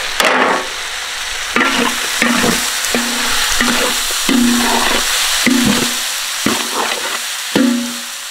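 Onion, tomato and green chilli masala sizzling in hot oil in a pan while it is stirred, with short scraping strokes of the utensil against the pan nearly two a second over the steady sizzle.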